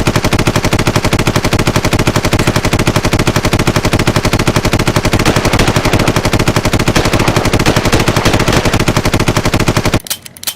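Machine-gun sound effect: rapid, unbroken automatic fire that stops abruptly about ten seconds in, followed by a couple of single sharp shots.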